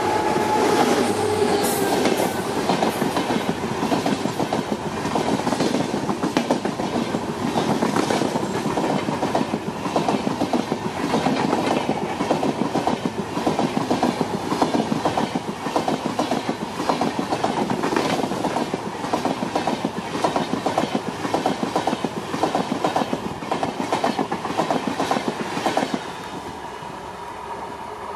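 Passenger train hauled by a WAP7 electric locomotive passing close at speed: the coaches' wheels clatter in a fast, even rhythm over the rail joints. A whine drops in pitch as the locomotive goes by in the first two seconds. The clatter ends abruptly near the end as the last coach passes, leaving a fainter rumble of the receding train.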